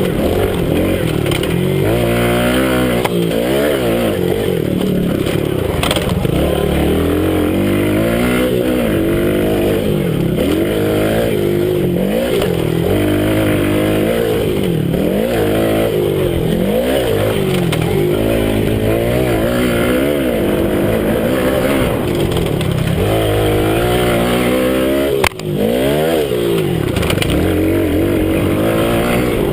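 Minibike engine revving up and down over and over as the rider accelerates and shuts off around a motocross track, heard from a camera mounted on the bike. A sharp knock with a brief drop in sound comes about 25 seconds in.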